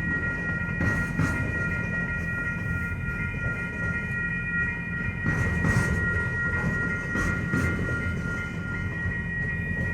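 Freight train cars rolling past: a steady low rumble, knocks as wheels cross rail joints about a second in and again about five seconds in, and a steady high squeal held throughout.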